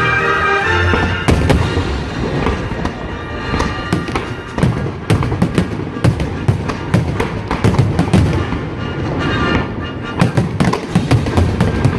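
Fireworks display: from about a second in, a rapid run of sharp bangs and crackles, coming in dense clusters, over music playing throughout.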